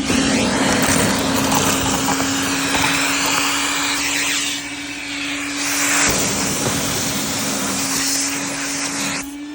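Vacuum cleaner running steadily with a constant motor hum and rushing suction, picking up broken Christmas ornament pieces; the pitch of the airflow shifts up and down as the nozzle moves, and it dips briefly near the end.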